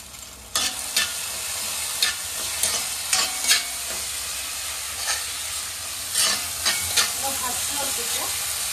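Ginger-garlic paste and onion-tomato masala sizzling in hot oil in a kadai, the frying hiss rising sharply about half a second in and then holding steady. A metal spoon stirs the masala, scraping and clinking against the pan a dozen or so times.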